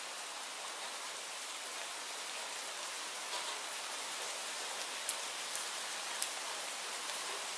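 Steady rainfall, an even hiss of many drops, with a few sharper ticks about five to six seconds in.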